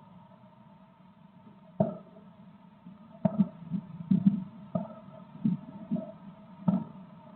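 Muffled thumps and bangs at irregular intervals, about eight of them, several in quick succession around the middle, over a steady electrical hum.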